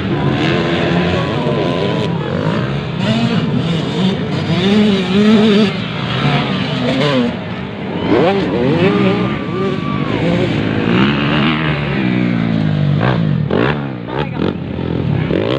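Several motocross bikes racing at once, their engines revving up and dropping back over and over, the pitches rising and falling across one another.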